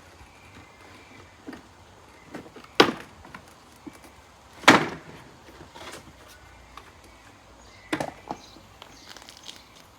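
Handling knocks and clicks as a lawn mower's parts and tools are moved and set down during disassembly: scattered light clicks, with three sharper knocks, the loudest near the middle.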